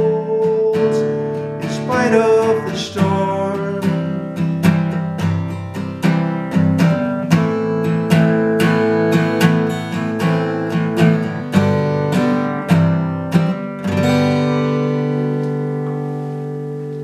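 Acoustic guitar playing the song's closing bars: strummed chords, then about fourteen seconds in a final chord left to ring and slowly fade.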